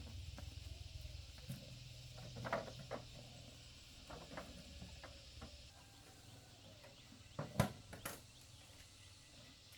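Faint scattered knocks and clicks, the loudest about three quarters of the way through, over a low hum that dies away in the first few seconds.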